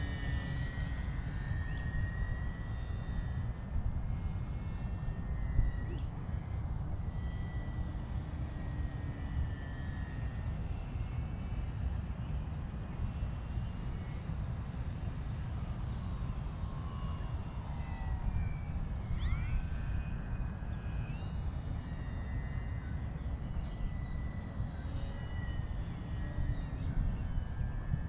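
Volantex Sabre 920 RC airplane's electric motor and propeller whining in flight. Its thin high pitch rises and falls as the plane manoeuvres, with quick sweeps in pitch about two-thirds of the way through, over a steady low rumble.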